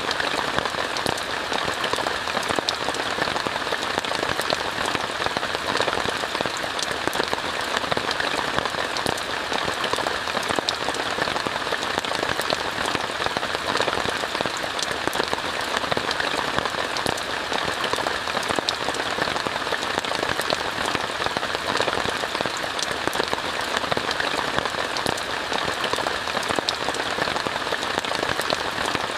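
Steady rain falling on a tent, an even hiss dotted with many small ticks of individual drops, unchanging throughout.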